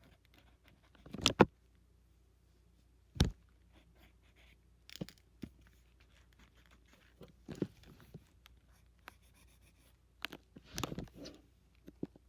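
Drawing sounds: faint scratchy strokes broken by scattered sharp taps, the loudest about a second in and again about three seconds in, with a cluster of taps near the end.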